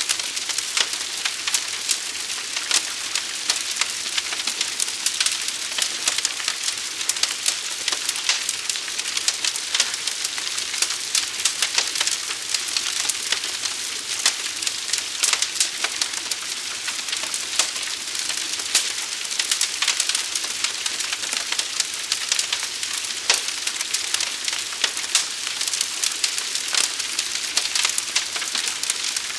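Fire crackling and hissing: a steady high hiss thick with irregular sharp pops and crackles.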